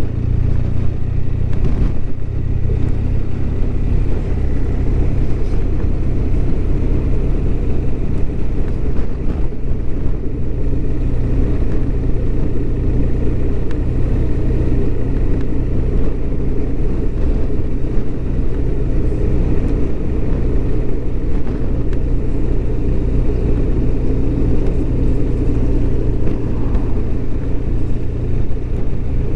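BMW R1200RT's flat-twin engine running steadily under way, heard over the low rumble of the moving motorcycle.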